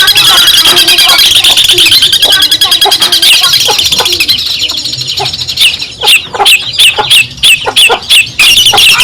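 Long-tailed shrike (cendet) singing: a fast, unbroken chattering song. About halfway through it changes to a run of loud, sharp, separate notes, roughly three a second.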